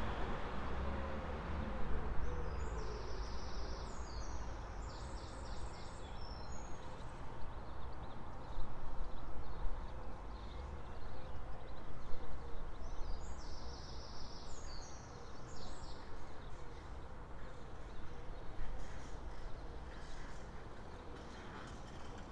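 Early-morning street ambience: a steady low rumble of traffic, and a songbird singing two phrases of high notes, the first about two seconds in and the second about thirteen seconds in.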